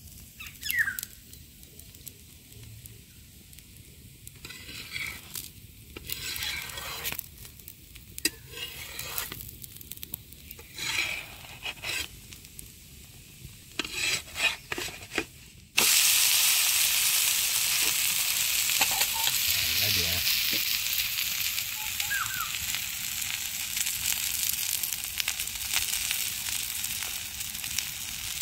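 Onion chakuli frying on an iron tawa. The first half is quiet, with a few short scrapes from a metal spatula working under the edges. About halfway through, a loud, steady sizzle starts abruptly and carries on to the end.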